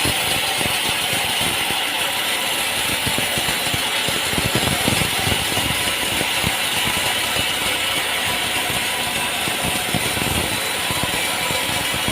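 Machinery running with a steady, rapid mechanical rattle and clatter.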